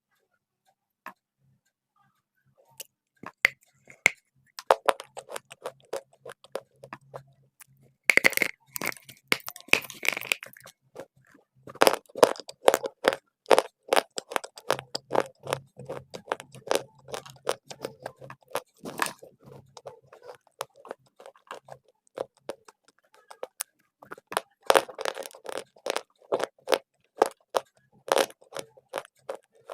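Dry clay being bitten and chewed close to the microphone: quick runs of crisp crunching cracks, with several louder bursts of bites between quieter stretches of chewing.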